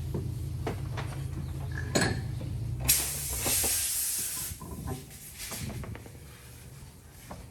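A steady low hum that stops about three seconds in, then a sudden rush of hissing air lasting about a second and a half, followed by light clicks and clinks, as in tyre and wheel work with compressed air.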